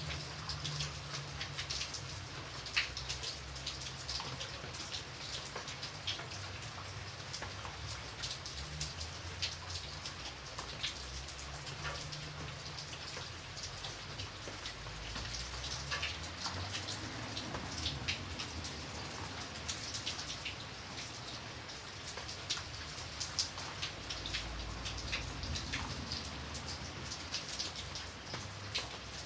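Steady rain with many individual raindrops ticking on a hard surface, over a faint low rumble.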